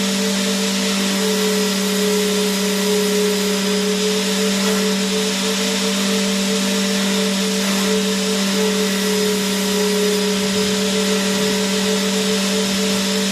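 Vacuum cleaner motor running continuously: a steady rushing hiss with a low hum and a higher whine that wavers slightly.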